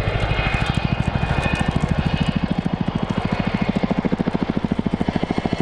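A Lockheed C-130J Hercules's four turboprop engines with six-bladed propellers at high power as the aircraft races low in a diving pass, a deep, fast, even throb.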